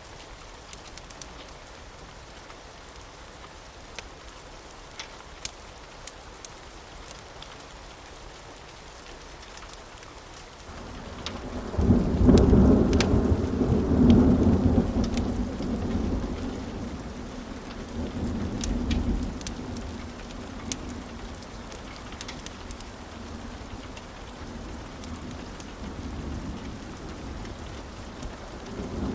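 Steady rain with scattered sharp ticks, then a long rolling thunder rumble that builds about eleven seconds in, peaks soon after and slowly fades over the following seconds; another roll of thunder starts near the end.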